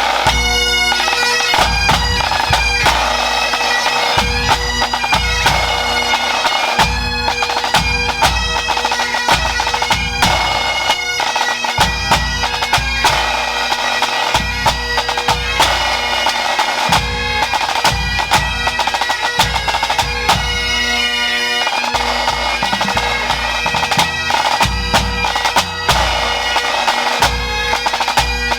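Pipe band playing: Great Highland bagpipes sounding a steady drone under the chanter melody, with band drums beating throughout.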